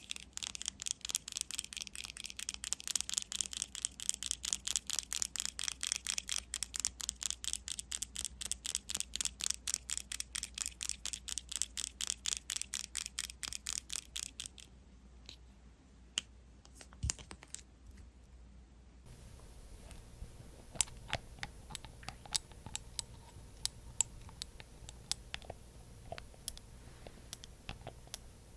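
Fast, rhythmic brushing or scratching strokes, about five a second, for roughly the first fourteen seconds. They give way to sparse, soft ticks and clicks.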